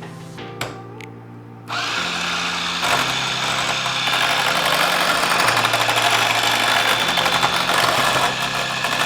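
Electric mixer switching on about two seconds in and running steadily, whipping water into a goat's milk lotion base, over soft background music.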